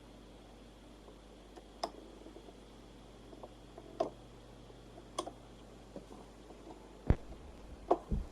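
Scattered clicks and light knocks of a Victor JL-F44R turntable being handled during repair, with a heavier thump about seven seconds in. A faint steady hum runs underneath.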